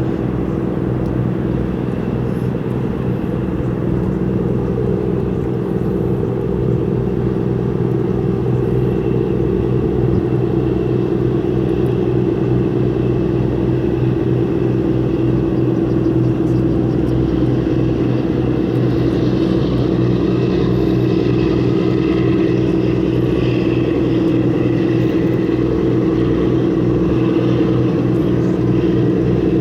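An engine running steadily with a low, even droning hum, and some fainter hiss joining about two-thirds of the way through.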